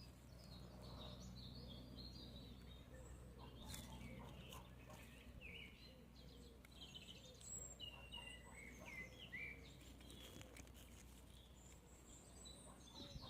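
Faint birdsong: many short chirps and trills from small birds over a steady low hum, with a few faint clicks.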